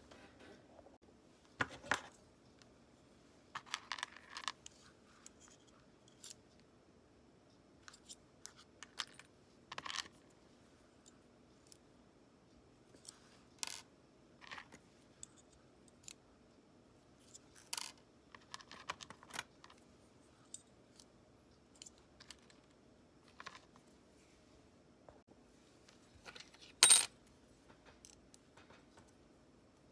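Scattered metallic clicks and clinks of small metal parts and tools being handled, set down and knocked together, with one loud sharp clink near the end.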